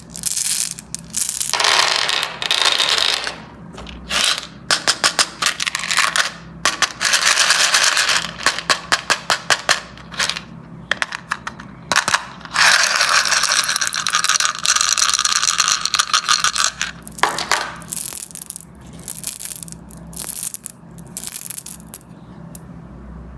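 Candies pouring and clattering, with many small hard clicks, quick rattling runs, and several longer stretches of dense clatter.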